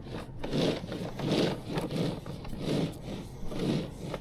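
Rhythmic scraping: about five strokes of a tool or hand scraping against a rough surface, a little under a second apart.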